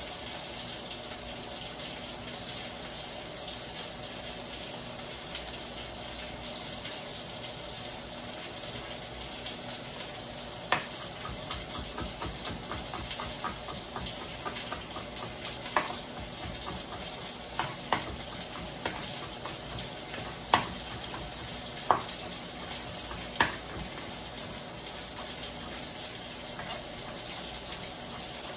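Tofu frying in oil in a wok, a steady sizzle throughout, while a chef's knife chops garlic on a plastic cutting board: a run of quick light chops from about 11 to 15 seconds in, then several single harder knife strikes, the loudest sounds here.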